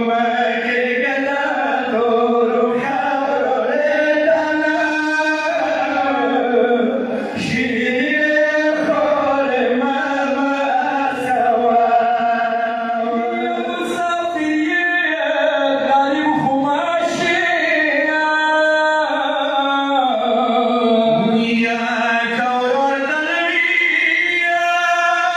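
Unaccompanied male chanting of a religious recitation, with long held notes that bend up and down in pitch.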